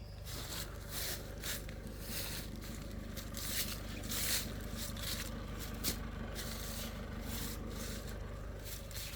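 Repeated scraping and rustling strokes, irregularly spaced, over a steady low hum.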